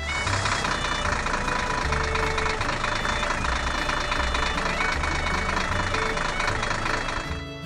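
Heavy construction-machine engine running steadily with a dense rumble. It starts abruptly and drops away shortly before the end.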